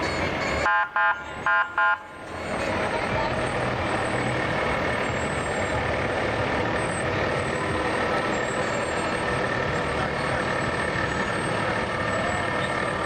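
A parade truck sounds two short horn blasts about a second in, then its engine runs steadily with street noise.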